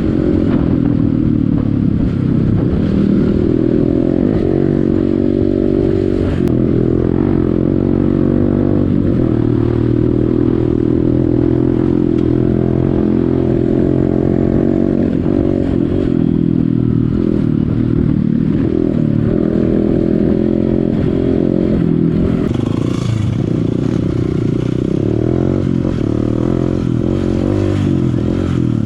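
Honda CRF150L single-cylinder four-stroke dirt bike engine being ridden, its pitch rising and falling again and again as the throttle opens and closes and the gears change.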